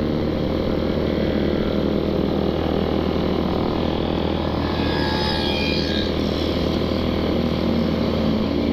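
Suzuki Satria FU 150's single-cylinder four-stroke engine running steadily through a gutted stock CKD muffler, giving a loud, open exhaust note while the bike is ridden.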